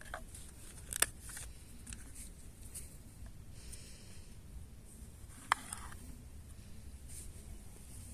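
Quiet scattered clicks and rustles of small objects being handled, with two sharper clicks, one about a second in and one about five and a half seconds in, over a low steady rumble.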